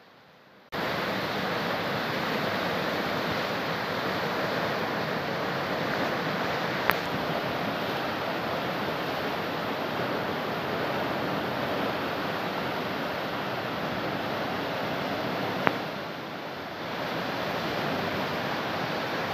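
Steady rush of fast-flowing river water, starting abruptly about a second in, with two short sharp clicks and a brief dip in level near the end.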